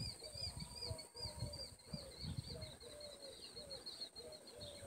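Faint bird chirping, short high calls repeated about three times a second, over low rumbles on the microphone.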